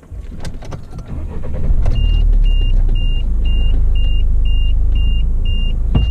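A vehicle's engine, stopped by its automatic start-stop, comes back to life and settles into a steady run over the first couple of seconds. Then a seatbelt warning chime beeps about twice a second, with a single knock near the end.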